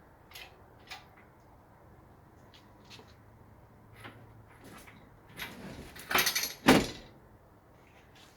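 Scattered knocks and clanks of metal parts during engine-removal work, with a louder clatter of several sharp hits about six to seven seconds in.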